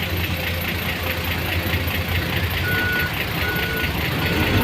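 A vehicle engine running steadily with a low rumble and an even, rapid pulse. Two short high beeps sound about midway, with a fainter third near the end.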